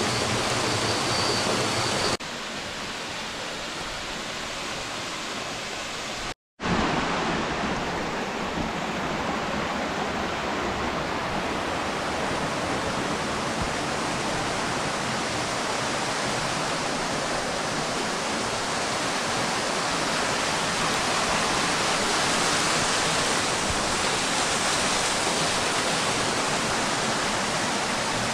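Waterfall: a steady, loud rush of falling water, broken by an abrupt change in level about two seconds in and a brief cut to silence a few seconds later.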